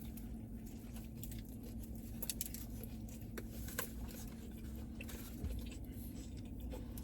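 A person chewing food, with scattered faint mouth clicks, over a steady low electrical hum.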